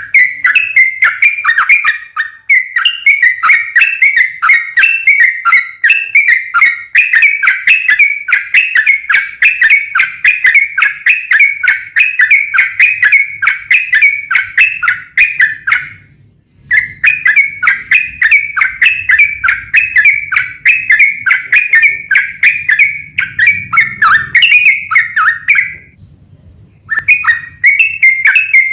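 Yellow-vented bulbul (trucukan) singing a long run of quick, repeated notes, with two short breaks, about two-thirds of the way in and near the end.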